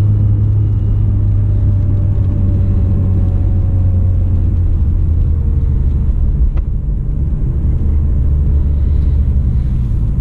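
A 2017 Acura NSX on the move, heard from inside the cabin: a steady low rumble of drivetrain and road noise, with a faint tone sliding slowly down in the first half and a single short click about six and a half seconds in.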